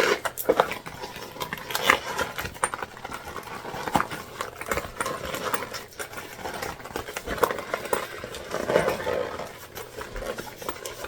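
A jelly-vinyl bag being handled: irregular rustling and clicks as its stiff, bound seams are pushed out while the bag is turned right side out.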